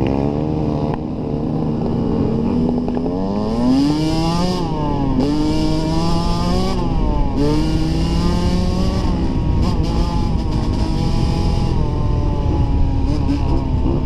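Dirt bike engine running under way, its pitch climbing and dropping a few times as the throttle is worked and gears change, then holding steadier.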